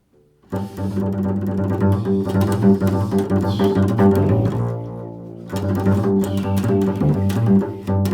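Double bass played pizzicato in a fast, improvised run of plucked notes. The notes start about half a second in, thin out briefly past the middle, then pick up again.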